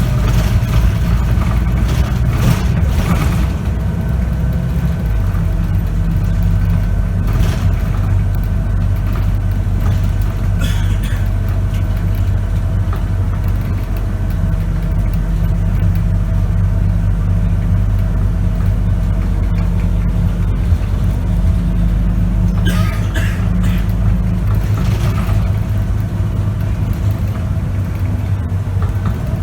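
Scania K94UB city bus running under way with its ZF automatic gearbox, heard from on board as a steady low engine drone. The drone shifts in pitch a few times as the bus changes speed or gear, with occasional short rattles and hisses over it.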